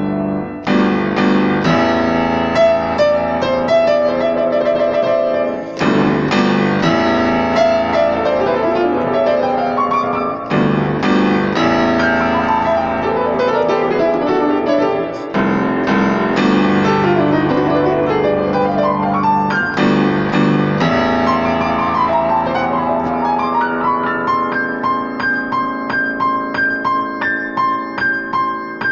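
Piano music: chords with quick runs of notes, thinning to lighter repeated high notes near the end.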